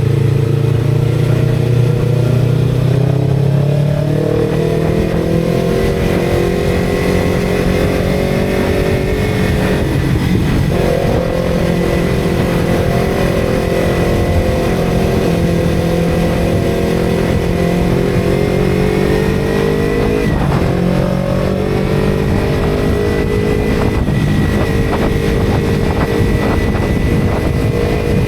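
Motorcycle engine running under way at steady loud volume. Its pitch creeps upward, with brief dips about ten and twenty seconds in.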